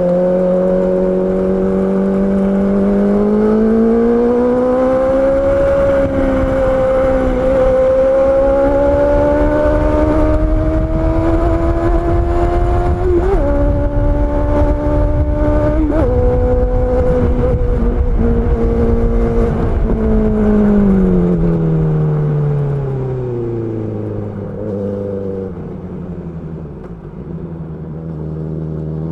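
Honda CB650R's inline-four engine accelerating with two quick upshifts, about 13 and 16 seconds in. It then rolls off the throttle, its pitch falling steadily to a low, near-idle note near the end. A low wind rumble sits underneath at speed.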